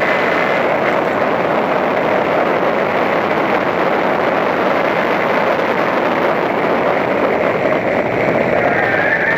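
Toyota Corolla Levin race car's engine running hard under load, heard from inside the cabin behind the windscreen over heavy wind and road noise.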